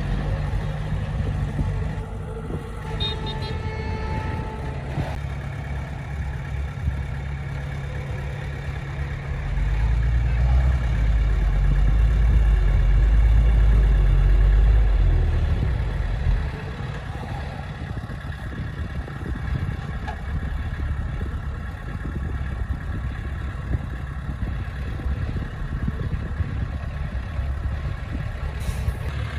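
Diesel engine of heavy earthmoving machinery running steadily, swelling into a louder, deeper rumble for several seconds in the middle before settling back to a steady run.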